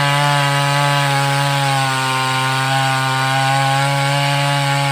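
588X two-stroke chainsaw running at high, steady revs while sawing through wood.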